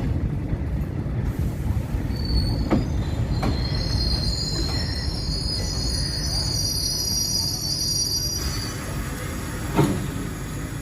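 Indian Railways passenger train running on the rails with a steady rumble and a few sharp clacks from the rail joints. A high metallic wheel squeal sets in about two seconds in and fades out near the end.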